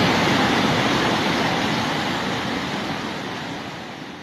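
Steady rushing noise of floodwater, fading out over the last couple of seconds.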